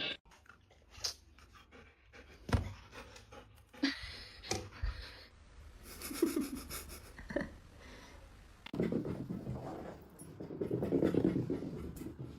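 A pet panting close to the microphone, louder near the end, with scattered small clicks and knocks.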